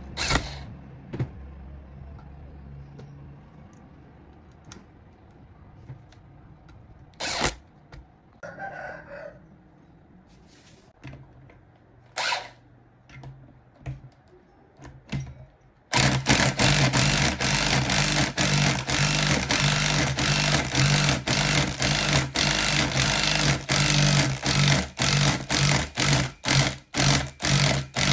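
Scattered clicks and knocks of handling, then about halfway through a loud small motor switches on suddenly and runs with a steady hum, cutting in and out in quick pulses near the end.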